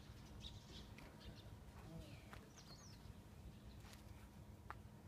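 Near silence: faint small-bird chirps, a few short high calls scattered throughout, over quiet outdoor background, with a few light taps.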